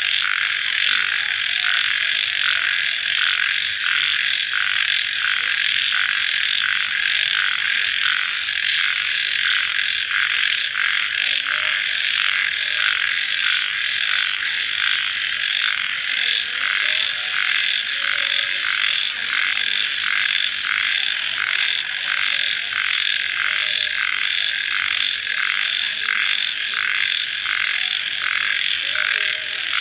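Dense night chorus of crickets, a steady high-pitched trilling that pulses in an even rhythm of roughly one and a half beats a second.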